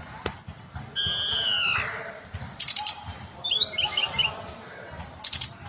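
Tledekan gunung (Sunda robin) singing varied phrases: a long clear whistle that drops in pitch at its end, then short buzzy rattles and quick twittering notes.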